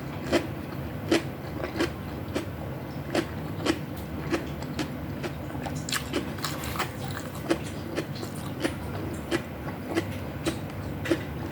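Close-miked chewing: soft, sharp mouth clicks at a regular pace of about three every two seconds, over a steady low hum.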